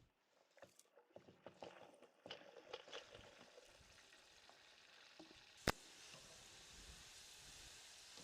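Food frying in hot oil. A few irregular crackles and knocks come first, then a steady sizzle builds from about three seconds in, with one sharp click just before the six-second mark.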